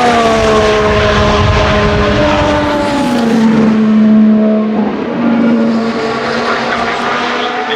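Formula 1 cars' turbo-hybrid V6 engines going past at speed: the engine pitch falls over the first few seconds as a car goes by, then holds and steps through gear changes.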